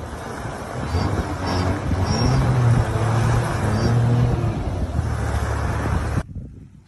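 A vehicle's engine running with road and wind noise, its pitch shifting slightly; it cuts off suddenly about six seconds in.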